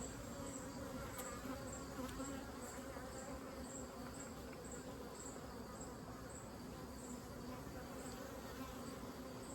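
Honeybees buzzing steadily around an open Layens horizontal hive, a low even hum, with a faint high ticking repeating two or three times a second.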